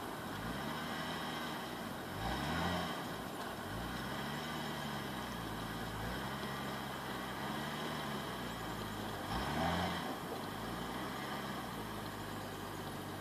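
Nissan GT-R's twin-turbo V6 revving up and falling back again and again, roughly every second and a half, as the car pushes slowly through deep snow.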